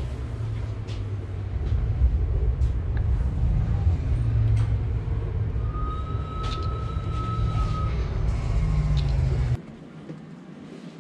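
Low, steady rumble of a moving train, with a steady high tone lasting about two seconds midway. The rumble cuts off abruptly near the end, leaving a quiet background.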